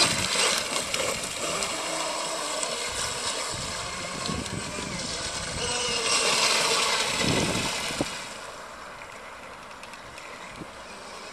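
Electric radio-controlled racing catamaran running on the water: a motor whine and the hiss of the hull, growing louder around six to seven seconds in, then fading. It is running short of full power because the low-voltage cutoff was set too high.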